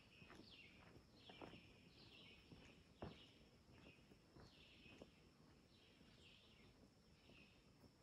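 Quiet woodland: a bird repeats high chirps that slide downward, one or two a second. Under them are faint footsteps of someone walking away, with one louder step about three seconds in.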